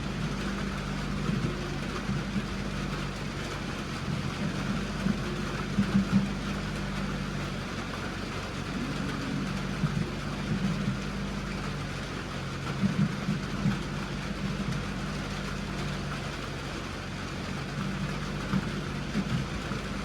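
A vehicle engine running steadily at a low pitch, with brief rattles and knocks every few seconds.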